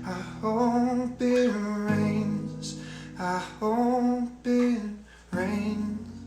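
Acoustic guitar strummed in slow closing chords with a man's wordless humming over them; the last chord, struck about five seconds in, rings out and fades.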